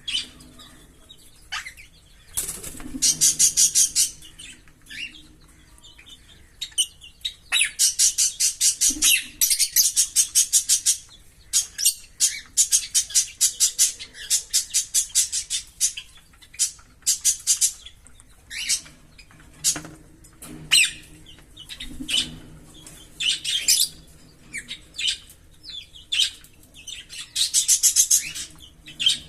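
A pair of green Fischer's lovebirds chirping and singing: several bouts of fast, rapid-fire repeated chirps, the 'giggle' song, the longest lasting a few seconds, with short single calls in between.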